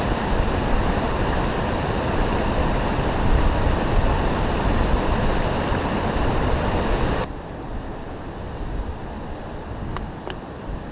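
Steady rushing of running water, a moorland stream or waterfall, that cuts off abruptly about seven seconds in, leaving a quieter outdoor hiss with two faint clicks near the end.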